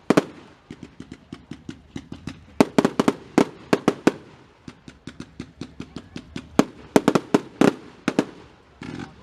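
Fireworks display going off: a fast, irregular string of sharp bangs and crackles, with a few much louder bangs standing out among them.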